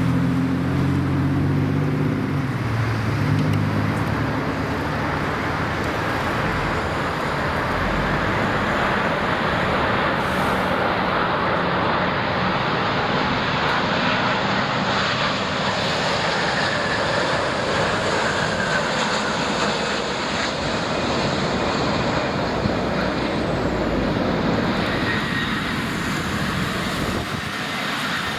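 A jet airliner's engines making a steady rushing noise that lasts the whole time, with a low hum in the first few seconds.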